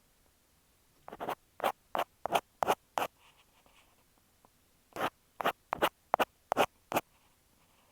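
Ear pick scraping over an earphone microphone in short, quick strokes. A run of about six strokes, a pause of about two seconds, then about seven more.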